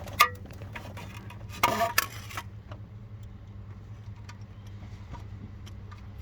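Scattered light clicks and a short metallic rattle about two seconds in, over a steady low hum: small parts and tools being handled during work under a car.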